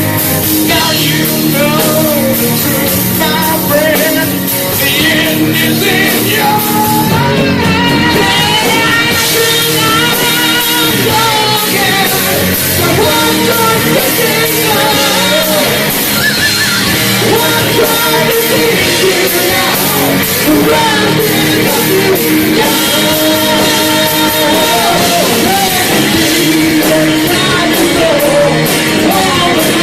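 A live heavy metal band playing loud, with a vocalist singing and yelling over the band.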